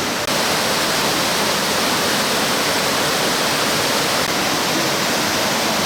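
Steady rush of water in a mountain valley stream, a loud, even noise of water pouring over rocks.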